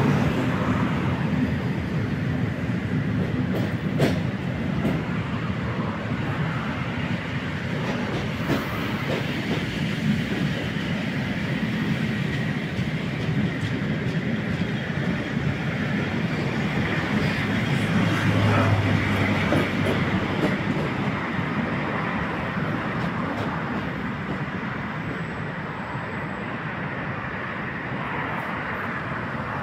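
Passenger train coaches rolling out beneath a footbridge, with steady wheel-on-rail rumble. The sound fades over the last several seconds as the rear of the train moves away.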